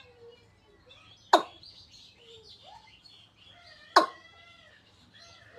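Birds chirping with many small, faint calls, broken twice by a loud, sharp, very short sound, about a second and a half in and again about four seconds in.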